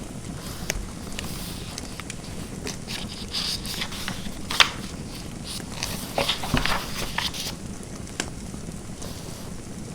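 Pen writing on paper, with scattered sharp clicks and short scratchy strokes, over a crackling fireplace and a steady background hiss.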